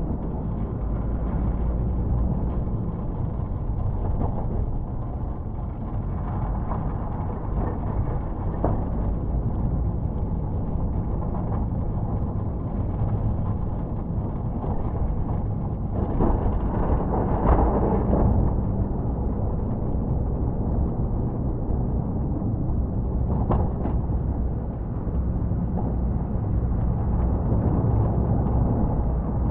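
Plow truck engine running steadily while plowing snow, with a louder rush of noise midway and a brief click later on.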